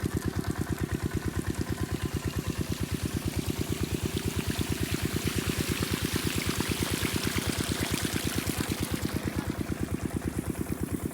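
8 hp single-cylinder diesel pump-set engine running steadily with an even beat of about seven strokes a second, with water rushing out of the pump's pipe.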